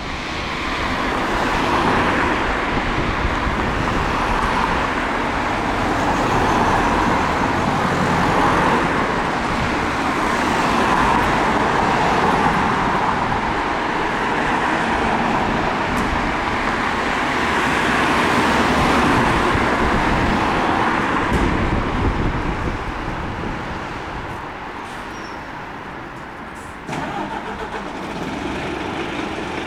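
Road traffic going by, a steady rush of tyre and engine noise that swells and fades as vehicles pass, with no sirens. The sound changes abruptly a few seconds before the end.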